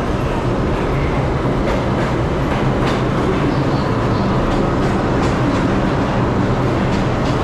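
New York City subway train running steadily, with a low hum and a few sharp clicks from the wheels and rails.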